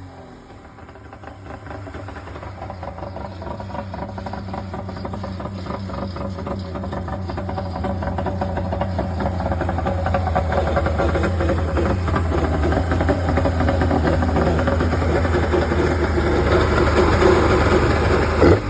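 1998 Kawasaki 1100 ZXi jet ski's three-cylinder two-stroke engine idling at a steady pitch, growing gradually louder.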